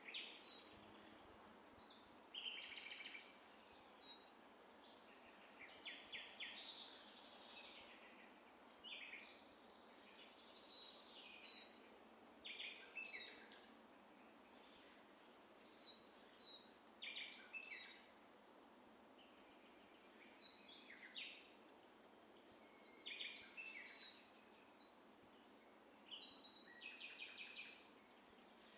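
Songbirds singing: short, rapid trilled phrases repeating every two to three seconds, with scattered thin high chirps between them, over a steady background hiss.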